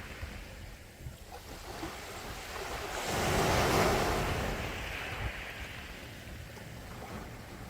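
Sea waves washing ashore: one wave swells and breaks about three seconds in, then hisses away, with low surf rumbling throughout.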